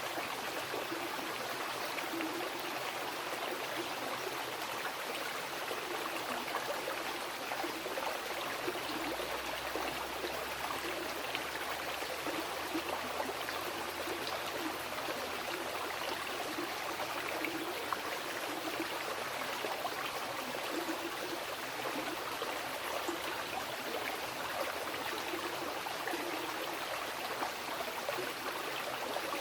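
Wild mountain river flowing over rocks: a steady, even rush of water.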